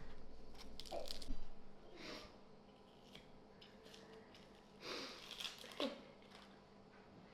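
A few faint, irregular sounds from cutting onions with a knife: soft cuts and taps, with a couple of sniffs from eyes watering at the onion.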